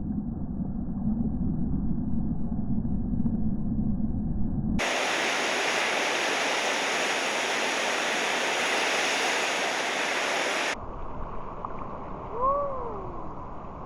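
Rushing noise of surf and moving water, muffled at first, then suddenly full and bright for about six seconds, then duller again. Near the end a short call rises and falls in pitch.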